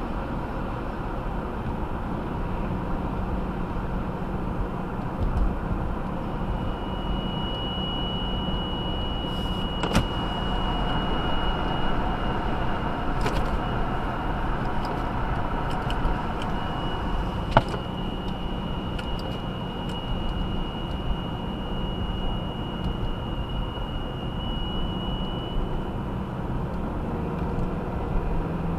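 A high-pitched steady whine inside a 2018 Subaru Outback 2.5i, over the engine and road noise. It sets in a few seconds in, falters briefly about halfway, then stops near the end, with a couple of sharp clicks along the way. It occurs at cold idle and light throttle, and the owner suspects either the CVT transmission or a faulty charging system.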